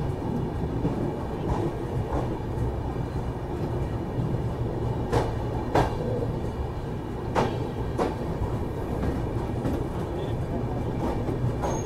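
Indian Railways passenger train running, heard inside a coach vestibule: a steady rumble of wheels on track, with two pairs of sharp clacks about halfway through as wheels cross rail joints.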